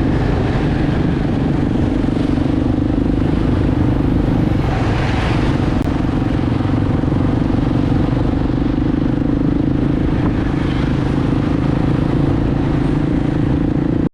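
Enduro motorbike engine running steadily under way, at an even pitch and level throughout.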